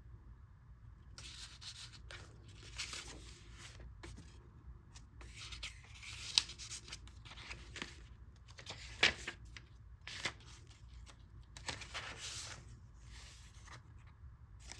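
Paper pages and paper inserts of a handmade junk journal rustling and sliding as they are turned and handled, in repeated short swishes, with two sharp clicks about six and nine seconds in.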